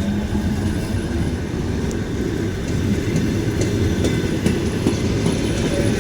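Train passing close by: a steady, loud rumble of wheels on the rails with scattered sharp clicks.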